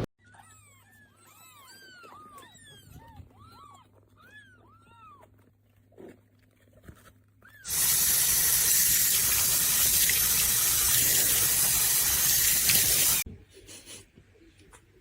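Many short, high, arching animal calls overlap for about seven seconds. Then a loud rush of running water, like a tap turned on full, lasts about five seconds and cuts off suddenly.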